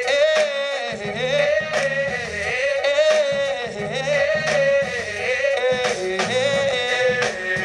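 A woman's voice holding long wordless notes with melismatic runs, over instrumental accompaniment with a repeating bass line and a steady drum beat.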